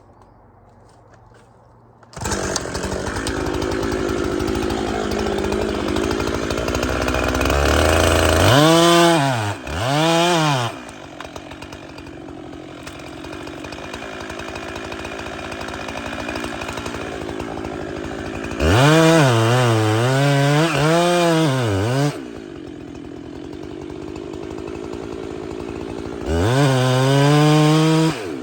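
Two-stroke Husqvarna chainsaw starting up about two seconds in and running, with three spells of full throttle where the engine note sags and recovers under load in the cut, dropping back toward idle between them.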